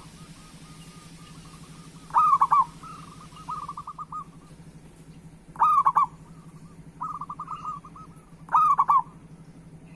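Zebra dove (perkutut) singing: runs of soft quick coos, each leading into a loud rolling phrase. The loud phrase comes three times, about every three seconds.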